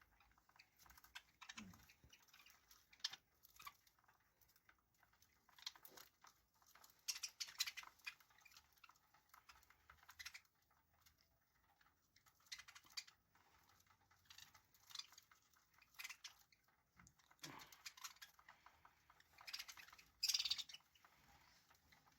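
Faint budgerigar chatter: short, scattered high-pitched chirps and clicks in irregular bursts, loudest about a third of the way in and again near the end.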